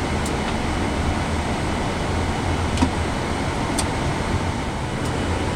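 Steady flight-deck background noise of a Boeing 787 Dreamliner on the ground before takeoff: an even air-conditioning hiss over a low rumble, with a few faint clicks.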